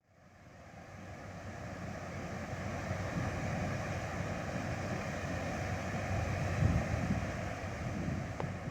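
Steady low rumble with a rushing, wind-like noise, typical of a vehicle driving along a road. It fades in over the first couple of seconds and fades out near the end.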